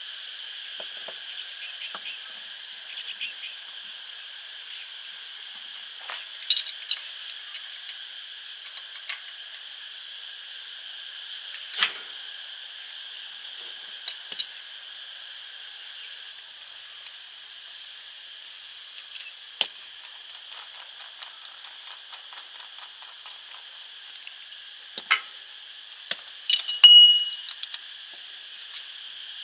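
A steady, high, shrill insect chorus, with scattered sharp clicks and light metallic clinks, and a brief high ring near the end.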